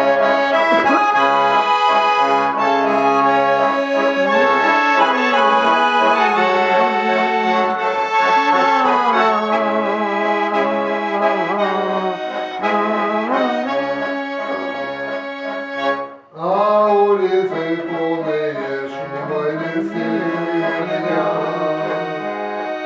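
Garmon (Russian button accordion) built by the master Khoroshilov, playing an instrumental passage of the song. A melody runs over regular bass-and-chord accompaniment, with a brief break about sixteen seconds in.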